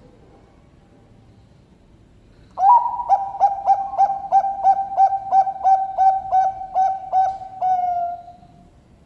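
Zebra dove (Bangkok-bred perkutut) singing one song phrase about two and a half seconds in. It opens with a single note, then a quick run of rolling coos at about four a second, and ends in a longer drawn-out note that fades.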